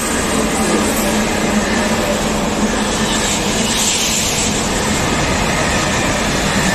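Trenitalia high-speed electric train passing through the station at speed: a steady loud rush of wheels on rails and air, with a constant low hum underneath.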